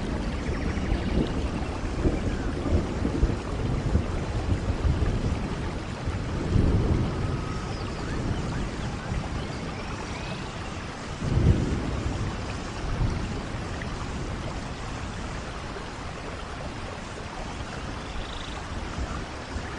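Steady rush of falling water from a waterfall, with two stronger low rumbling surges about six and eleven seconds in.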